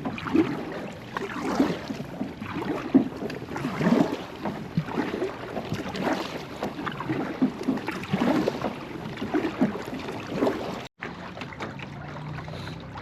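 Kayak paddle strokes in the water, a splash and drip about every second, with some wind on the microphone.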